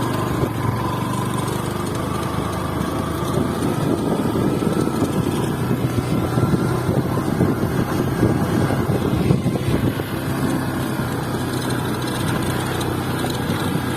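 Motorcycle engine running steadily while riding, with wind and road noise, growing rougher in the middle.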